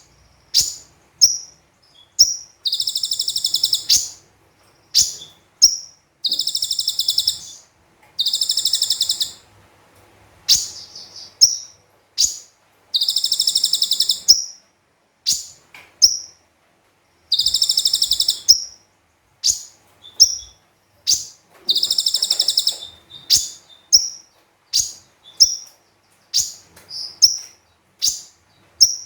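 Konin (kolibri ninja) sunbird singing energetically: long, rapid, buzzy trills of high notes about a second long, alternating again and again with short sharp high chips.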